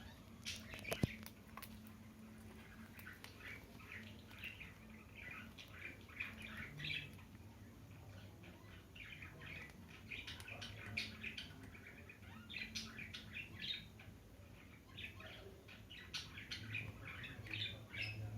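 Green parrot making many short squawks and chirps in quick clusters throughout, with a sharp click about a second in.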